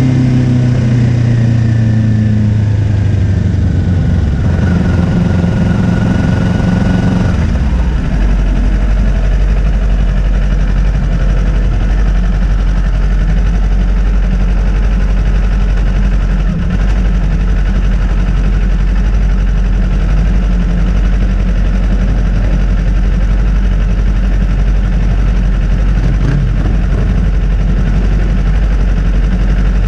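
Kawasaki Ninja 400 parallel-twin engine running, its note shifting in pitch over the first seven seconds or so, then giving way to a steady, heavy low rumble with a dense roar that hides the engine note.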